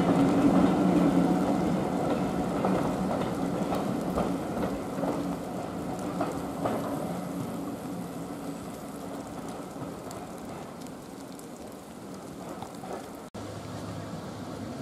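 Passenger coaches rolling past, their wheels clicking over rail joints, the sound fading steadily as the train draws away, over a steady rain hiss. After a sudden cut near the end, a low steady hum from a diesel locomotive standing at a platform.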